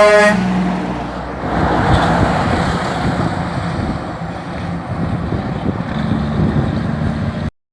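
Heavy tractor-trailer engine running with road and traffic noise. The tail of a truck air horn blast ends right at the start. The sound cuts off abruptly near the end.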